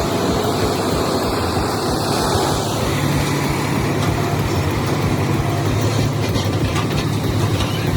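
Heavy truck engine running with a steady low drone that grows stronger about three seconds in.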